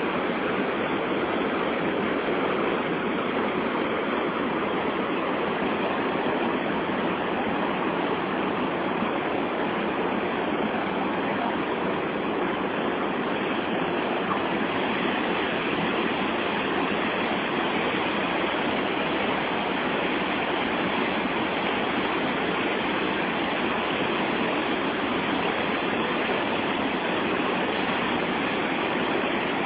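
Steady rush of a large waterfall's rapids, an even roar of water that neither rises nor falls.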